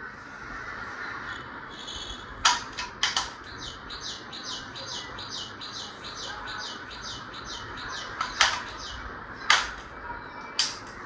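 A bird chirping in a quick, even series of about four calls a second, with several loud, sharp cracks scattered among them.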